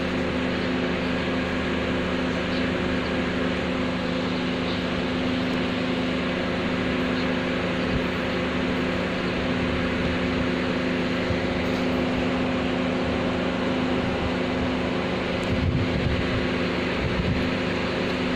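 Steady machine hum holding a few fixed low tones, with some low bumps near the end.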